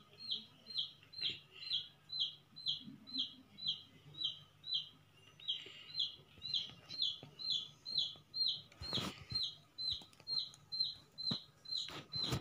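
A bird calling over and over, a short high note that dips slightly in pitch, repeated very regularly about two and a half times a second, with a few soft clicks about three-quarters of the way through.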